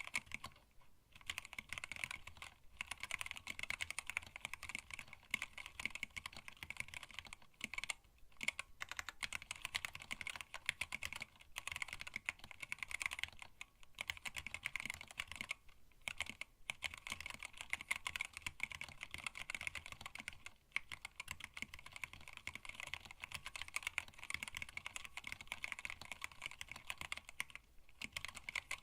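Fast, continuous typing on a hand-wired split mechanical keyboard with Tealios linear switches, blank PBT keycaps and a stacked acrylic case, with a few short pauses between bursts.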